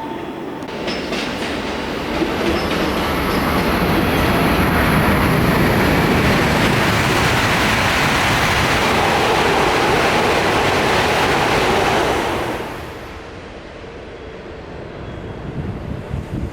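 Coupled E5 and E6 series Shinkansen passing through the station without stopping. A rushing roar builds over a few seconds, stays loud for about eight seconds, and drops away sharply about twelve seconds in.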